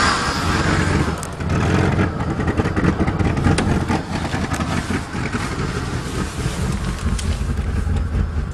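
1994 Chevy Blazer's 4.3 Vortec V6 running steadily at idle shortly after a cold start, with scattered small clicks over the engine note.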